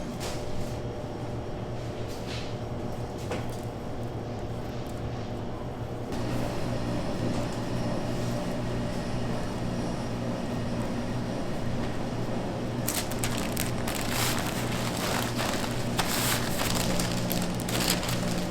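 Steady machine hum in a bakery workroom, stepping up in level about a third of the way in. Near the end there is a run of crackling and clicking from handling.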